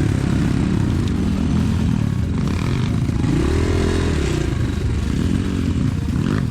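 Enduro pit bike engine running under load on a forest trail, revs rising and falling repeatedly as the throttle is worked, with some clatter from the bike over rough ground.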